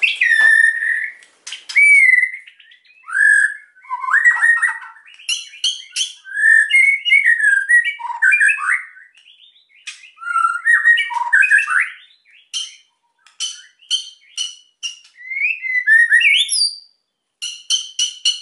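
White-rumped shama (murai batu) singing energetically. Its varied phrases of rising and falling whistles are mixed with runs of rapid dry clicks (kretekan), with short pauses between phrases.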